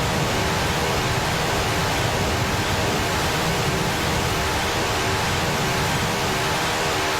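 Electric fan running steadily close to the microphone: an even rushing noise with a fluttering low rumble from the airflow buffeting the mic, and a faint motor hum under it.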